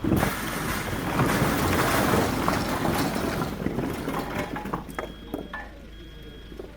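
A load of oak firewood logs being dumped from a truck: a sudden, dense clatter of tumbling wood that lasts about four seconds, then thins to scattered knocks.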